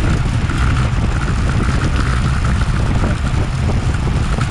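Steady wind buffeting on an action camera's microphone while riding a road bike at speed, a dense low rumble with road and tyre noise beneath it.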